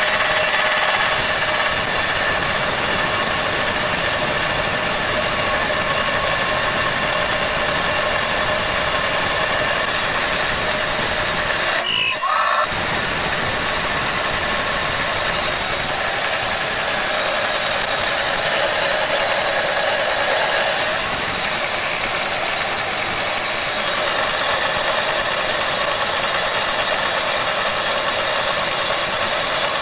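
Homemade metal cut-off saw with an alloy blade, driven by a 2000 W brushless motor on an 18 V battery, running with a steady whine over a dense grinding noise. The sound breaks off for a moment about twelve seconds in.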